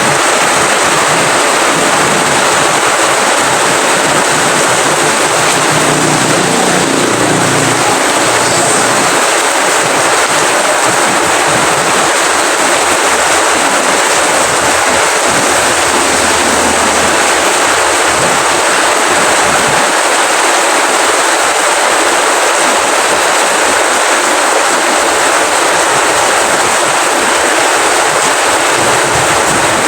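Steady rain falling as a dense, even hiss, with a faint low rumble coming and going beneath it.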